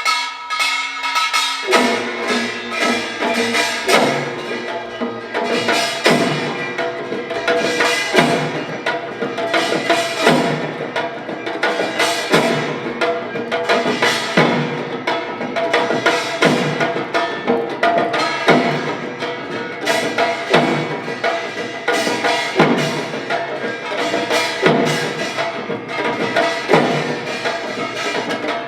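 Korean pungmul percussion ensemble playing a fast, dense rhythm of drum and gong strokes, with heavy accents about every two seconds and metal gongs ringing under the beats.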